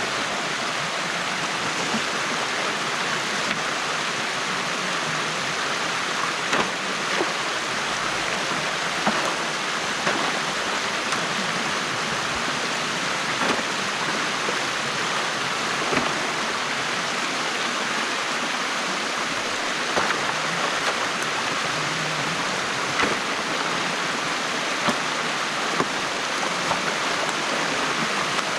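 Stream water rushing steadily through a gap opened in a beaver dam, with a dozen or so brief sharp clicks scattered through it.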